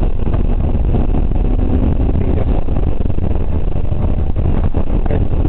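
BMW 325iX straight-six engine running hard with gravel and road noise, heard from inside the car at speed on a dirt road. A few sharp knocks come about four seconds in.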